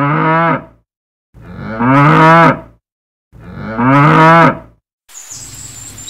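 A cow mooing three times, each moo a long, even call of about a second and a half, with short silent gaps between.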